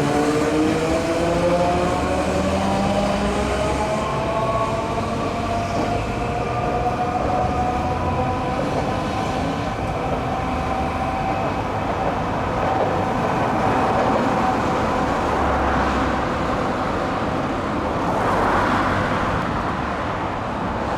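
Hiroshima Electric Railway 5100-series low-floor tram running, its traction motor whine made of several tones together. The whine rises in pitch over the first eight seconds or so as the tram accelerates, then holds steady as it runs on, over a rumble of wheels on rail.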